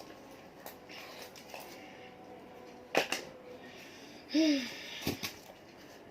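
Origami paper being handled and folded: a few sharp taps and snaps, about three seconds in and twice near five seconds, with a brief rustle and a short voiced sound around four and a half seconds in.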